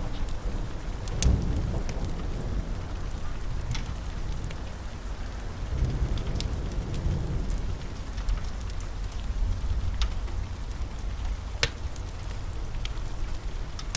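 Steady rain with low rolling thunder that swells about a second in and again around six seconds. Scattered sharp crackles of a wood fire sound over it.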